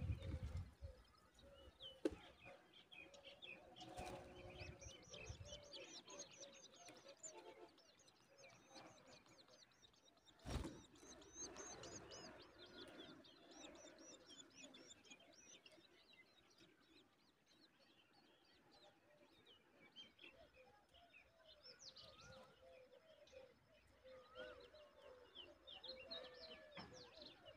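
Faint bird chirping: many short, rapid, high-pitched chirps in loose runs, with a single soft knock about ten seconds in.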